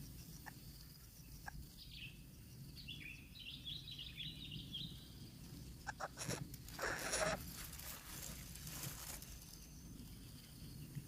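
Faint outdoor background noise with a short run of high bird chirps about two seconds in, lasting a few seconds, then brief rustling a little past the middle.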